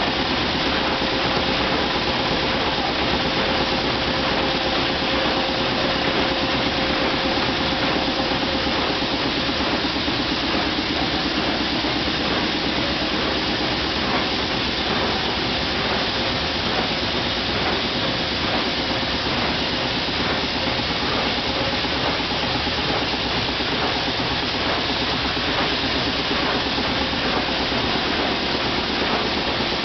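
Triple-expansion marine steam engine and boiler of a steam tug running under steam: a steady mechanical clatter and hiss with a fast, even rhythm. A faint steady whine fades out about nine seconds in.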